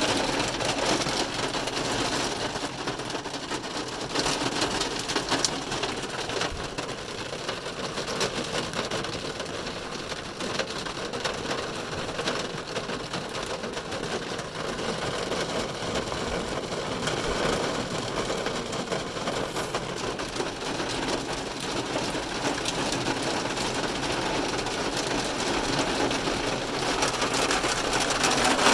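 Heavy rain drumming on a car's roof and glass, heard from inside the car: a dense, steady patter of countless drops.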